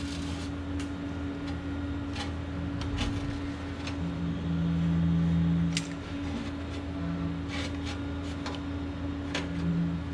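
Scattered clicks and clinks of hand tools working at a stubborn rubber exhaust hanger on the muffler, over a steady low hum. A low tone swells for a couple of seconds in the middle.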